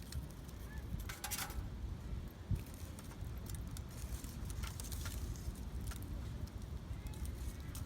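Pieces of burning charcoal clinking and rattling as they are moved with tongs onto a small metal grill: a few short, sharp clinks about a second in and again around the middle, over a steady low rumble.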